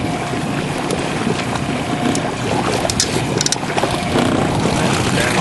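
A small fishing boat's motor running steadily under wind buffeting the microphone, with a few light clicks about three seconds in.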